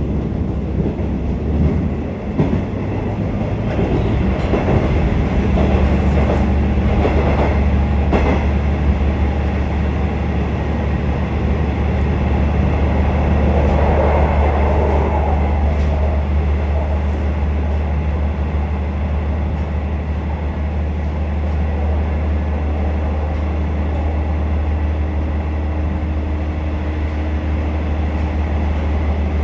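Inside a KiHa 47 diesel railcar running along the line: a steady low engine drone with wheel and rail noise, and a run of clicks over rail joints about four to eight seconds in.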